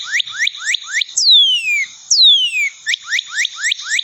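Northern cardinal singing: a fast run of short rising whistles, about five a second. About a second in it breaks into two long, loud down-slurred whistles, then goes back to the quick rising notes.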